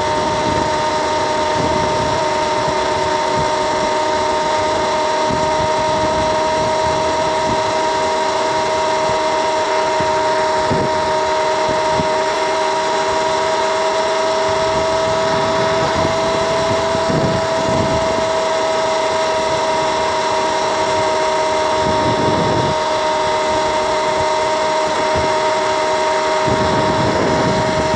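Electric motor-scooter cruising at a steady speed of about 50 km/h: its electric drive gives a steady, even-pitched whine. Wind buffets the microphone in gusts.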